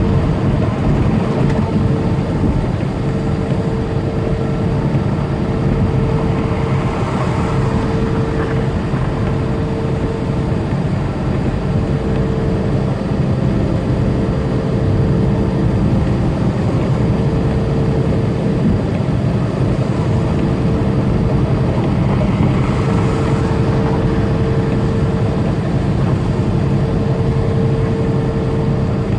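Semi truck's diesel engine and tyres running steadily at highway speed, heard from inside the cab as a dense low drone. A faint whine comes and goes over it, and a hiss swells briefly twice, about a quarter and three quarters of the way through.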